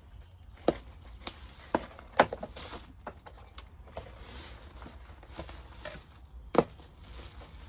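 Scattered light taps and clicks from small craft pieces being handled and pressed into place, with sharper knocks a little after two seconds in and again near the end.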